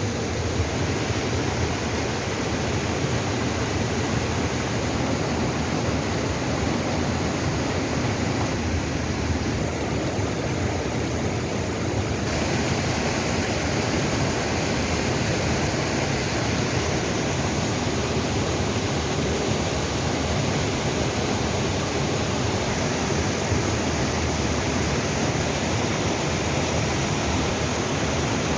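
Mountain stream water rushing steadily over rocks, an even rush of water with no breaks.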